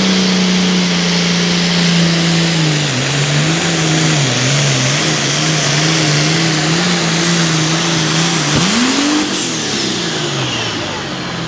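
International 1206 hot farm tractor's diesel engine running hard under full load down the pulling track. The engine note holds steady at first, then wavers up and down, and about three quarters through it dips, surges sharply and winds down as the pull ends with the left tire popped off its rim.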